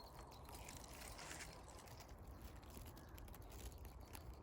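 Near silence: faint outdoor background with a low rumble and a few soft clicks and rustles.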